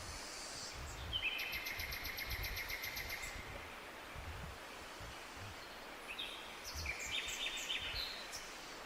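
A songbird singing in a forest, two phrases of rapid high trilled notes about four seconds apart, over a steady hiss of forest background.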